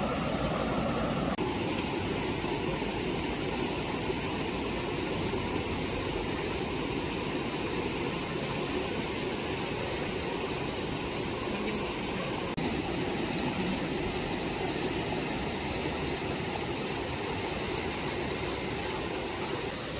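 Steady rush of a mountain stream's flowing water, with the sound shifting suddenly about a second and a half in and again about twelve seconds in.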